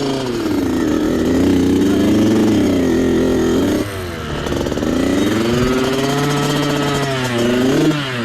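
Small off-road motorcycle engine revving. The pitch climbs and holds, drops off just before four seconds in, then climbs again and falls away near the end.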